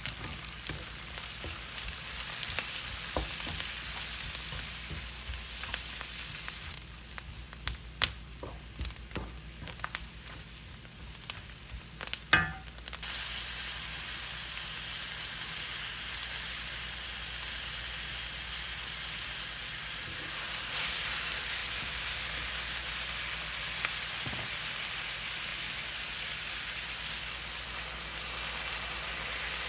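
Food sizzling in a hot pan during Indian curry cooking. The sizzle dies down for a few seconds in the middle, when a utensil clicks and knocks against the pan, with one loud knock about twelve seconds in. Then the sizzle comes back and briefly swells around twenty seconds in.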